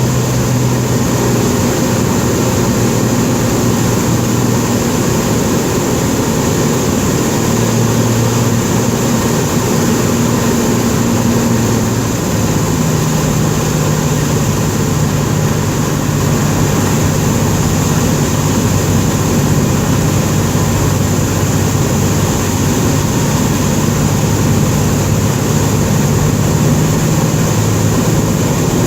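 Cessna 207's single piston engine and propeller running steadily. The engine note steps up slightly about twelve seconds in.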